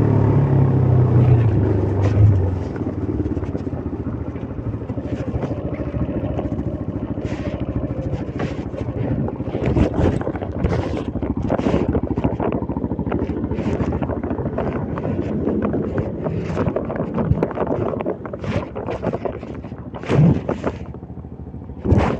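CFMOTO Papio 125's single-cylinder engine running steadily for the first couple of seconds, then fading under wind rumble. Wind buffets the microphone in uneven gusts for the rest, with the engine faint beneath it.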